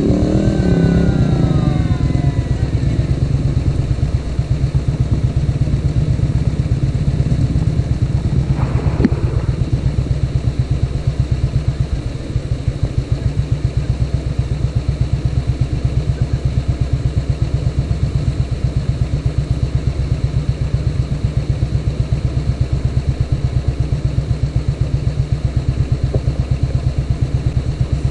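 Old single-cylinder Royal Enfield motorcycle engine running at a steady, even beat. There is a brief clatter about nine seconds in.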